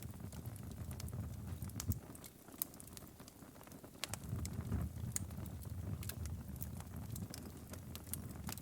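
Wood fire crackling, with scattered sharp pops and snaps over a low rumble of burning that drops away for a couple of seconds about two seconds in.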